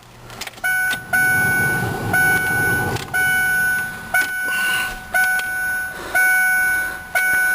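Ford Ranger's dashboard warning chime sounding steadily, one tone about every second, with a low rumble underneath between about one and three seconds in.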